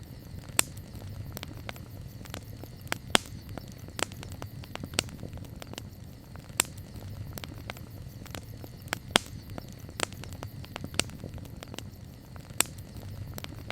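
Campfire crackling: irregular sharp pops and snaps, roughly one a second, over a steady low rumble of burning wood.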